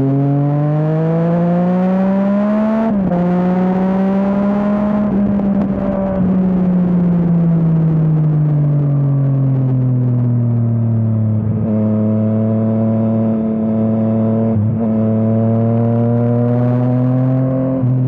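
Yamaha MT-09's three-cylinder engine through an Akrapovič exhaust. The revs climb for about three seconds, break briefly at a gear change, fall away slowly for several seconds, then hold steady, with two more short breaks later on.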